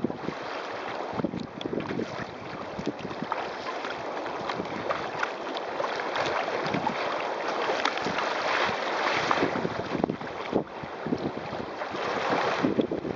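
Strong wind rushing across the microphone, with water splashing and slapping against a sail-driven kayak's hull in many short, sharp hits. The wind is loudest a little past the middle and again near the end.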